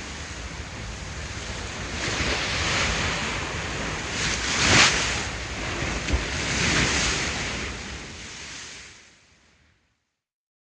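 Ocean waves surging and breaking on a shore, in several swells, with the loudest crash about halfway through; the sound fades out near the end.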